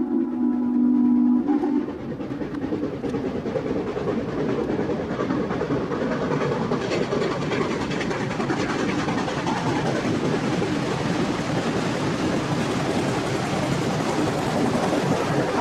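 Western Maryland steam locomotive sounding its whistle in a steady low chord for about the first second and a half, then a continuous rush of steam exhaust and running noise.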